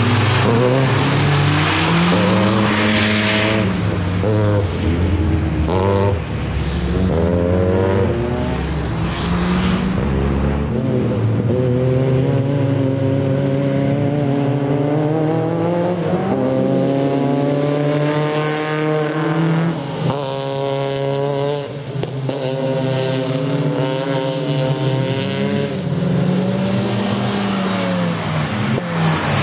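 Peugeot 306 rally car's engine revving hard through the gears, its note repeatedly rising and falling as the driver accelerates and lifts around the circuit. In the first few seconds there is tyre noise as it slides past close on the wet track.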